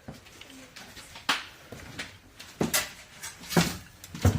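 Footsteps on a floor strewn with broken glass and debris: a few irregular crunches and knocks, the loudest near the end.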